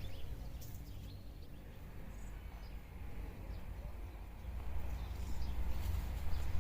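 Outdoor nature ambience: a few short, faint bird chirps over a steady low rumble.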